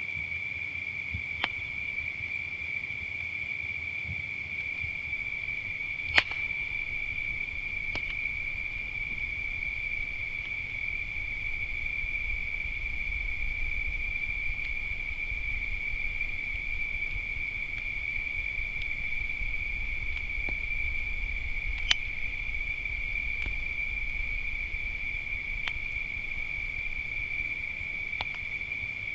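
Steady, high-pitched insect chorus of crickets singing without a break. About half a dozen sharp pops from a wood campfire sound over it; the loudest come about six seconds in and again about twenty-two seconds in.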